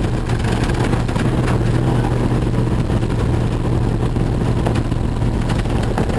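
Old Jeep's engine running at a steady low speed on a rough logging road, with scattered knocks and rattles.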